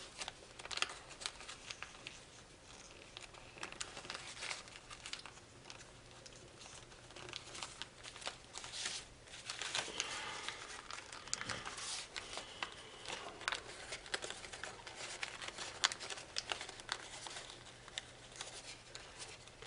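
Sheet of foil origami paper crinkling and crackling in irregular bursts of small clicks as it is turned over, folded and pressed flat by hand.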